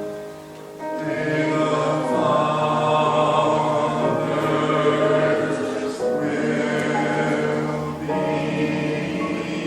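Choir singing slow, sustained chords with musical accompaniment, growing louder about a second in, with short breaks between phrases.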